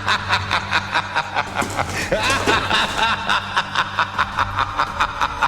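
A person laughing in quick, evenly spaced snickers, about four or five a second, over a steady low hum.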